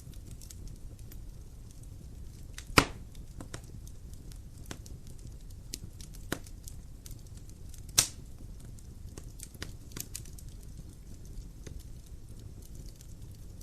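Wood fire burning in a fireplace: steady crackling with a low rumble of flames and many small ticks, and two loud pops about three seconds and eight seconds in.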